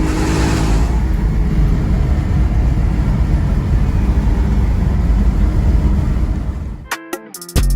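Car engine through an aftermarket exhaust: a rev falling away, then a loud, deep rumble that cuts off suddenly about seven seconds in. Plucked guitar music starts near the end.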